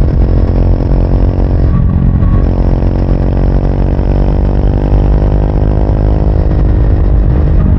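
Triumph Speed 400's 398 cc single-cylinder engine running while the bike is ridden, with a steady note that breaks up briefly about two seconds in before settling again.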